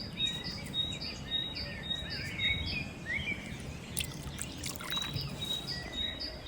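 Birds chirping and calling, one repeating a short high note about twice a second, over a low steady rumble.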